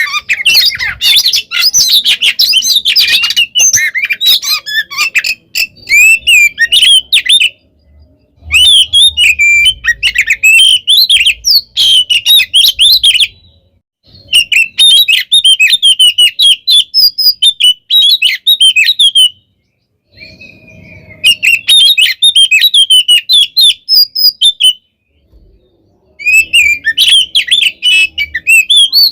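Oriental magpie-robin (kacer) singing loudly in its aggressive full fighting song. Long runs of rapid, varied high whistles and chattering notes come in five bursts, broken by short pauses of about a second.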